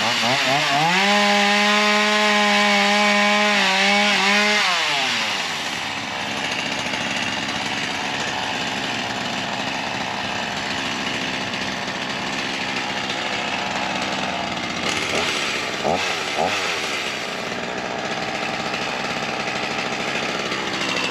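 Ryobi 37cc two-stroke gas chainsaw revving up to full throttle at the start, holding a steady high pitch for about three seconds, then dropping back about five seconds in. For the rest it runs lower and rougher, with two brief revs around fifteen to sixteen seconds in.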